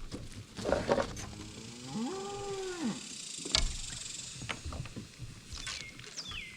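A cow mooing once, a drawn-out call that rises and then falls in pitch, about two seconds in. A few sharp knocks are heard around it, and short falling chirps near the end.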